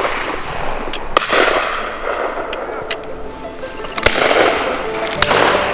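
Shotgun shots at driven pheasants: about three loud reports and several fainter, more distant ones, each trailing off in an echo. Background music with held notes comes in about halfway.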